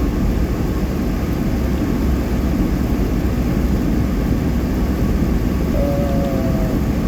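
Steady road noise inside a car driving at highway speed on wet pavement: tyres on the wet road and the engine under way. A short faint wavering tone sounds near the end.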